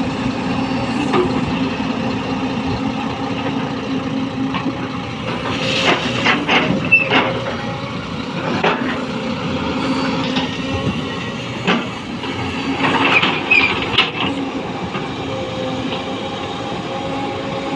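Tracked excavator's diesel engine running with a steady hum while it loads soil into a dump truck. Clusters of metallic clanks and rattles come about six seconds in and again about thirteen seconds in.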